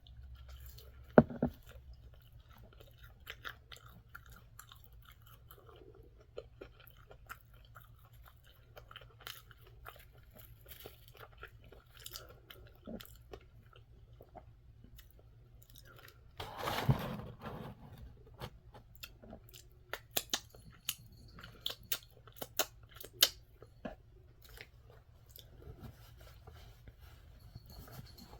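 Close-miked chewing and crunching of fried food, with scattered wet mouth clicks. A louder breathy burst comes about halfway through, and sharper clicks cluster a few seconds later.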